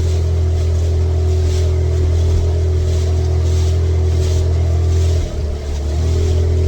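Boat engine running steadily, with a brief dip in its sound about five seconds in.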